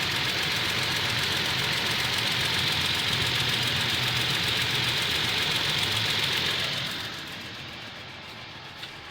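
Toyota Tacoma engine idling during warm-up with a rapid, steady ticking from the driver's side of the engine, which the owner takes for a valve or bad lifter. The sound gets noticeably quieter about seven seconds in.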